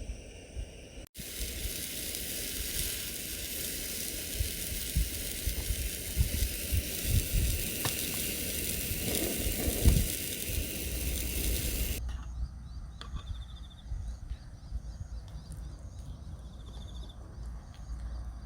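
Wood campfire burning with a steady hiss and scattered crackles, while wind rumbles on the microphone. About twelve seconds in it cuts to a quieter outdoor ambience with wind rumble and a few short trilling chirps.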